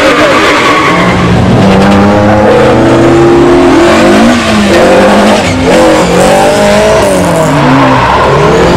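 Historic rally car engine driven hard, its pitch rising and falling several times as it revs, shifts and lifts off.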